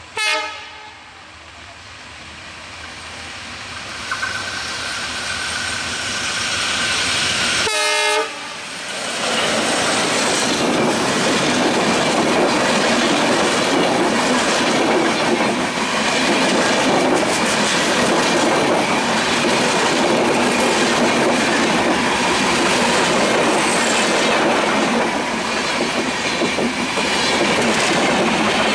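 Bangladesh Railway Silk City Express intercity train passing at speed. Its diesel locomotive's horn sounds in a short blast at the start and again about eight seconds in, falling in pitch as the locomotive goes by. The coaches then run past with a steady loud rumble and clickety-clack of wheels over the rail joints.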